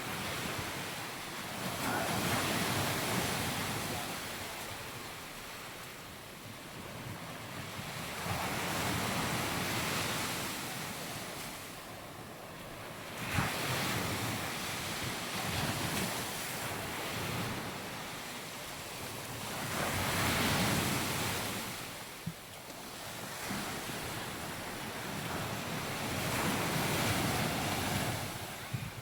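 Sea waves breaking and washing up a sandy beach, the surf swelling and ebbing about every six or seven seconds.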